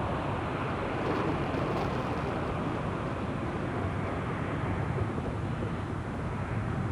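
Jet airliner engines running at the airport, heard as a steady, even rumble with no change in pitch.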